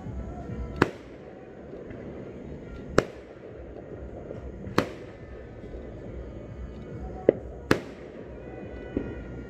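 Fireworks bursting in the sky: six sharp bangs over about nine seconds, two of them close together near the end.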